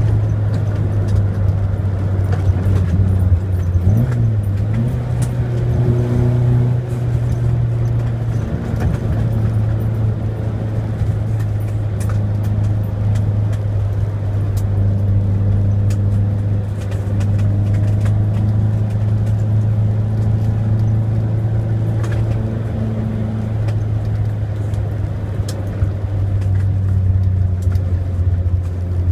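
Simca 1000's rear-mounted four-cylinder engine running under way at fairly steady revs, heard from inside the cabin, with a brief dip and rise in pitch about four seconds in and scattered small clicks and rattles.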